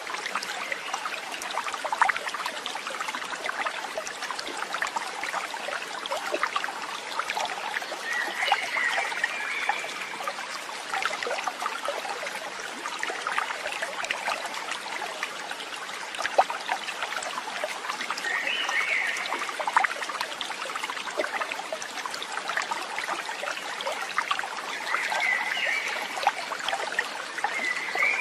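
Running water trickling steadily, with a few brief chirps over it.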